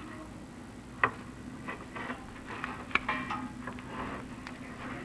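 Chimney inspection camera and its cable knocking and scraping against the clay flue tiles as it is lowered down the flue: irregular clicks and knocks, the sharpest about a second in and near three seconds, over a steady low hum.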